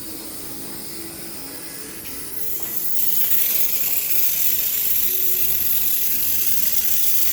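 Air hissing steadily from a refrigerator compressor run as an air compressor. The hiss comes up loud about two and a half seconds in and then holds steady.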